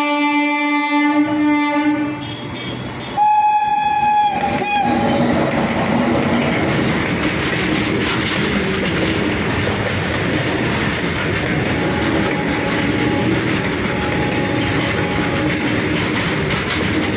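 Electric locomotive of a freight train sounding its horn twice, first at the start and again, louder, about three to five seconds in. After that, the steady rumble and clatter of loaded open freight wagons rolling past on the track.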